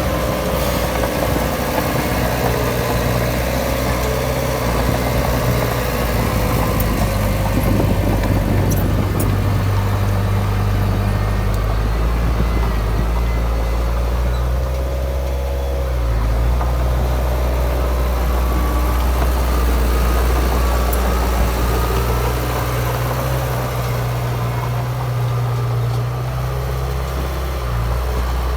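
Heavy diesel earthmoving machinery running steadily, its engine note shifting in level and pitch several times as the load changes.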